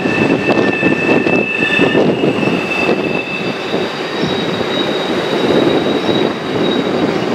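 Freight cars of a CN train rolling across a steel arch bridge: a steady rumble of wheels on the steel with thin, high-pitched wheel squeals that come and go, one in the first few seconds and another higher one in the middle.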